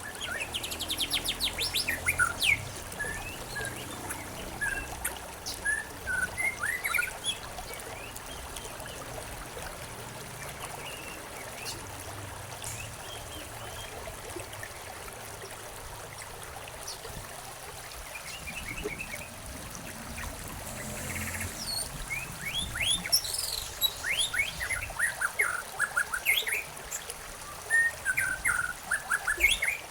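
Songbirds chirping and trilling over the steady trickle of a stream. The calls come thickly in the first few seconds and again through the last third, with sparser chirps between.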